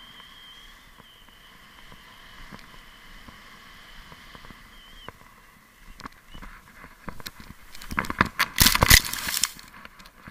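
Snowboard sliding over snow, with scattered crackles, building to a loud rough scraping burst about eight to nine seconds in.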